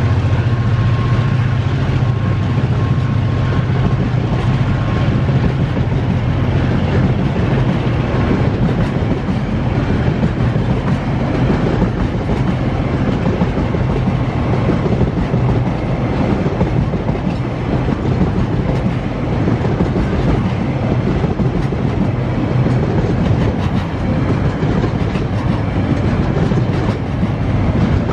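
Freight wagons loaded with logs rolling past steadily, a continuous rumble with the clickety-clack of wheels over the rail joints; the low drone is strongest in the first several seconds.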